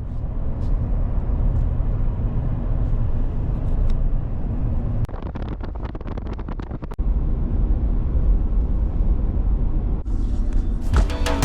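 A vehicle driving, with a steady low rumble of road and engine noise. About five seconds in comes a stretch of about two seconds of rapid clicks.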